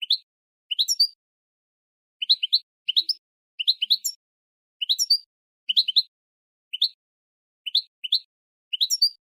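Goldfinch × linnet hybrid giving short rising chirp calls, singly and in quick clusters of two or three, about one cluster a second, with clean silence between.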